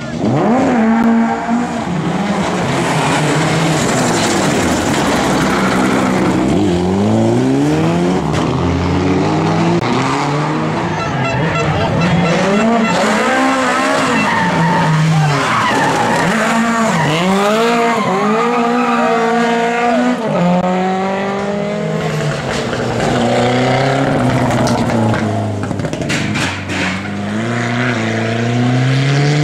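Rally car engines revving hard, the pitch climbing through the gears and dropping at each shift or lift-off, over and over as cars pass.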